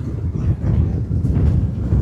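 Wind buffeting the microphone: a loud, gusting low rumble that swells and dips unevenly.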